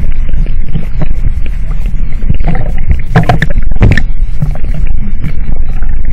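Loud, steady rumbling water noise at an artificial wave pool, with a few brief louder splashes about three to four seconds in.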